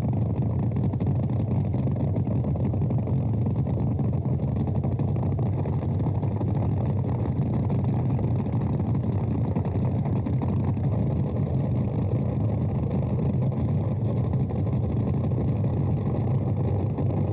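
Boat engine running at a steady low drone with no revving.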